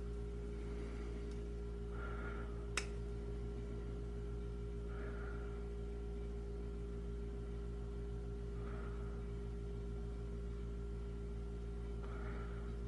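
Steady electric machine hum, with a soft swish about every three seconds and a single sharp click about three seconds in.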